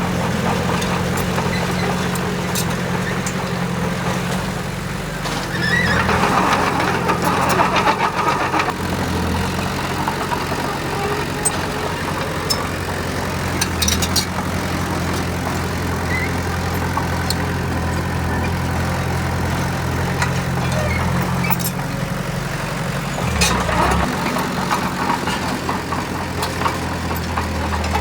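Heavy diesel engine of a working dump truck or bulldozer running steadily, working harder twice: about six seconds in and again near the end. Scattered short clicks and knocks are heard over it.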